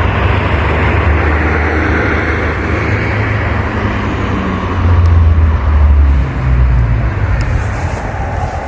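A train running close by: a loud, steady low rumble that swells about five seconds in, then eases slightly.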